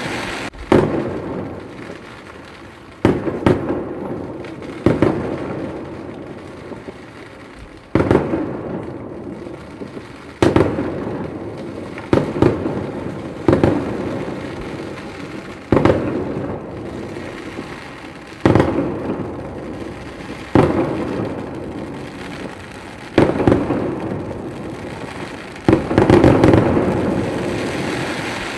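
Fireworks display: aerial shells bursting with loud bangs about every two to three seconds, each bang followed by a rumbling tail that dies away.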